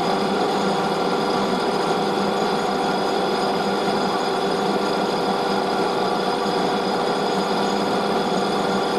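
Metal lathe running steadily at 755 rpm during a boring operation, a steady even hum with several fixed tones.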